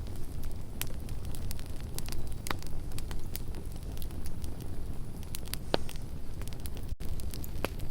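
Campfire crackling: burning wood giving scattered sharp pops and snaps, a few louder ones spaced a couple of seconds apart, over a steady low rumble of the flames.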